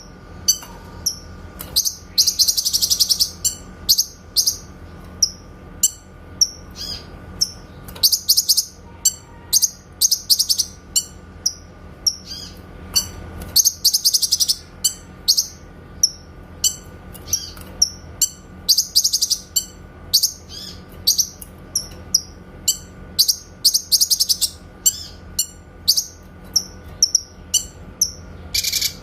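Cucak kinoy songbird calling: a quick run of short, sharp, high 'shot' notes (tembakan), several a second, broken every few seconds by a longer, denser trill.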